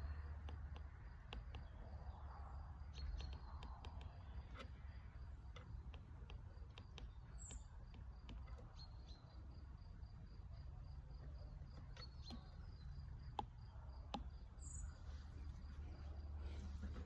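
A cricket chirping faintly in a steady, even pulse of about four chirps a second, over a low rumble. Scattered light clicks come and go.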